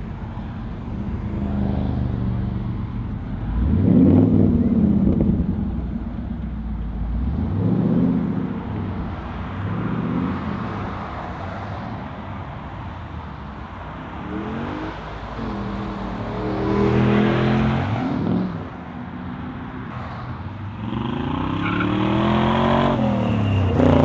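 Muscle car engines revving up again and again as cars pull out one after another, each rev a rise in pitch, the loudest about four seconds in, around seventeen seconds and near the end.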